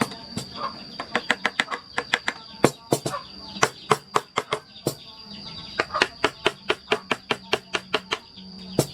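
Mallet tapping a carving chisel into wood in quick runs of sharp strikes, several a second, with short pauses between runs. A steady high-pitched tone runs underneath.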